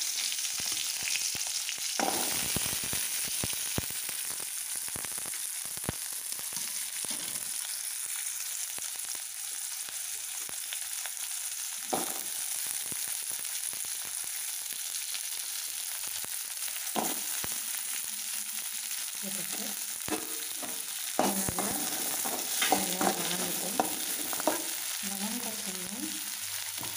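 Shallots and garlic cloves frying in groundnut oil in a metal kadai, with a steady sizzle. A metal spatula stirs and knocks against the pan, sharp clicks becoming more frequent near the end.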